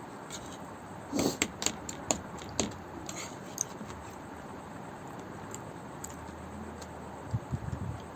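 Close-up eating sounds of someone eating Maggi noodles with mutton gravy. About a second in comes a brief wet slurp, followed by several sharp mouth clicks and smacks. Near the end there is a short run of soft low thumps from chewing.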